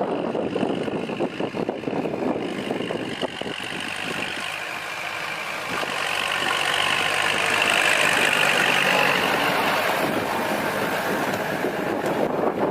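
Kubota L4708SP tractor's diesel engine running, swelling louder partway through and easing off again near the end.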